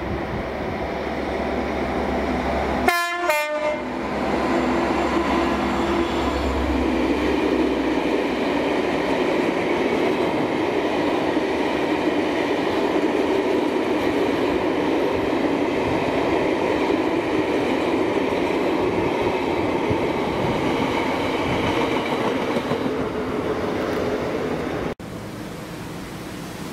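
A Class 59 diesel locomotive passes, its engine running with a steady note, and sounds a short horn blast about three seconds in. A long rake of aggregate hopper wagons then rumbles past steadily until the sound cuts off abruptly near the end.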